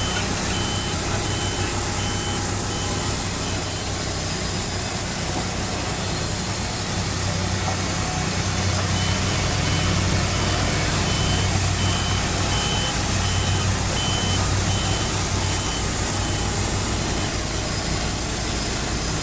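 Engines of portable band sawmills running steadily. Over them, a high reversing beeper sounds in short, evenly spaced beeps, once at the start and again in a longer spell from about halfway through.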